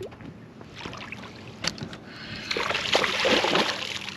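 Water splashing and sloshing, loudest from about two and a half to four seconds in, after a couple of sharp clicks.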